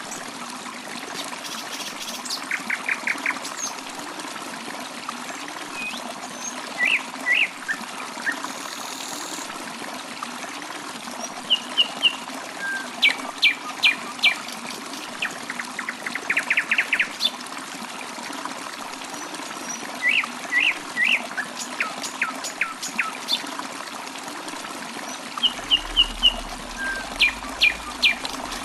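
Birds chirping and calling in short notes and quick trills, scattered throughout, over the steady sound of trickling water.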